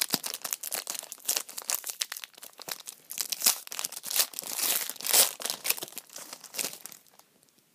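Foil trading-card pack (2013-14 Score hockey) being torn open and crinkled by hand, a dense run of crackles that stops about a second before the end.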